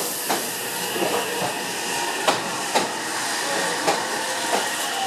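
Meitetsu express electric train rolling slowly into the platform, its wheels knocking over rail joints in uneven clacks, about seven in five seconds, over a steady rumble.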